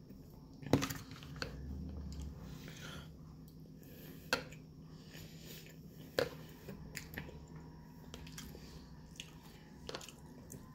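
Close-up chewing and eating sounds, with a metal fork clicking and scraping against a plastic food tub now and then in sharp single clicks.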